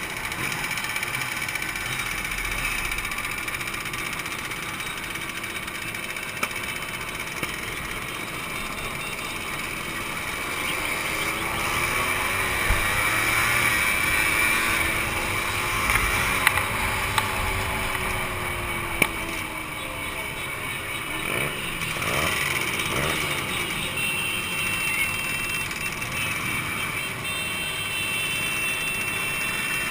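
Two-stroke motorcycle engines running, the engine note rising and falling through the middle, with a few short sharp pops.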